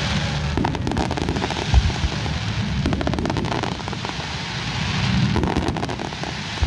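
Aerial fireworks bursting: low thumps, the loudest about two seconds in, over a steady hiss, with several runs of rapid crackling from crackle-effect shells.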